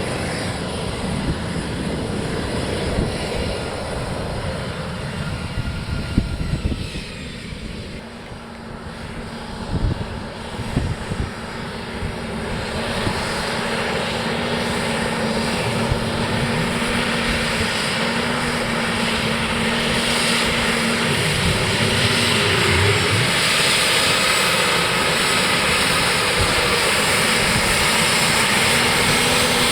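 S-3B Viking's twin turbofan jet engines running, the roar growing steadily louder through the second half. Irregular low thumps come in the first ten seconds.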